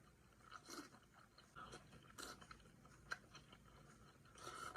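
Faint close-up chewing and mouth sounds of someone eating, a few short bites and smacks with a sharper click about three seconds in.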